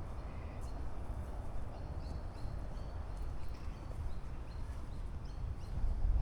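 Wind rumbling on the microphone, with small birds giving short, faint, high chirps several times through the middle of it.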